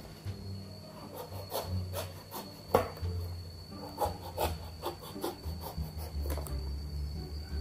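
A large kitchen knife cutting and scraping through the thick green rind of a pomelo, a run of short rasping strokes. One sharper knock comes nearly three seconds in.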